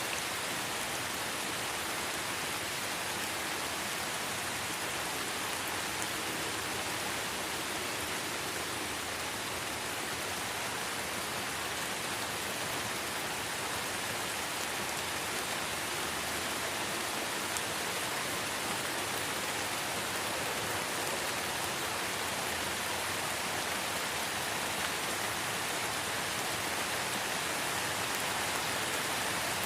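Steady light rain falling on forest foliage, an even hiss of drops with an occasional faint tick.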